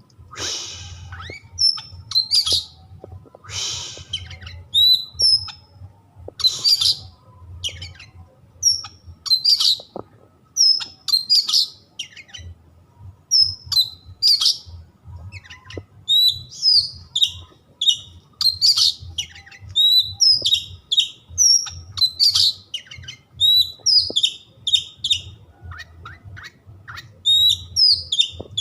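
Oriental magpie-robin (kacer) in full song: rapid phrases of short whistled notes, many sliding up or down, mixed with harsh rasping calls near the start, with brief pauses between phrases.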